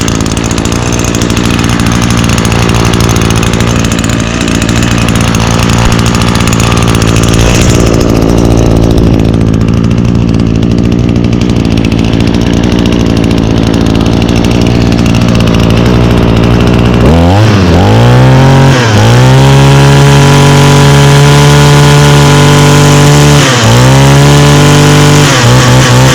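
Echo SRM225 string trimmer's 21.2cc two-stroke engine running just after starting: it idles steadily, then about two-thirds of the way through is throttled up to high revs and held there, with two brief dips, dropping back toward idle at the end.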